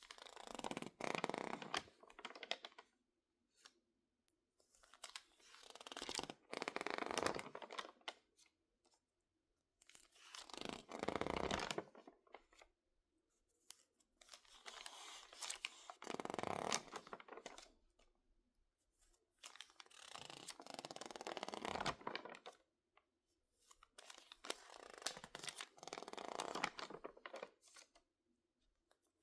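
Crinkled, water-damaged magazine paper being handled, giving crackly, crinkling passes of two to three seconds each, about every four to five seconds, with near silence between them.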